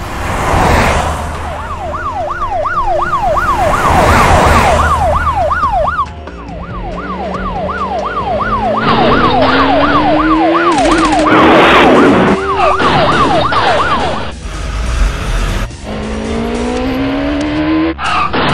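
Police siren in a fast yelping wail, about three sweeps a second, that stops about 14 seconds in. Over it a car engine revs up with rising pitch, and several short whooshing rushes pass.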